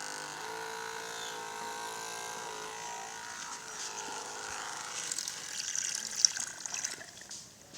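Small battery-powered DC motor of a homemade toy boat running with a steady, slightly wavering whine that fades away about four seconds in. Scratchy crackles and clicks follow near the end.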